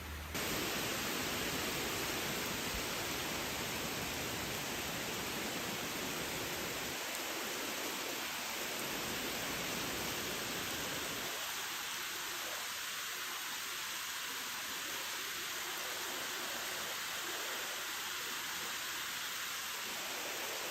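Steady rain falling, an even hiss that starts abruptly about half a second in.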